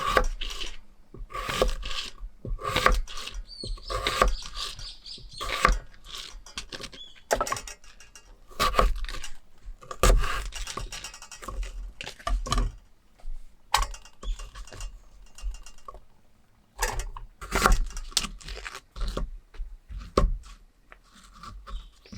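Irregular clicks, clinks and knocks of small hard objects being handled and set down, with a few dull thumps.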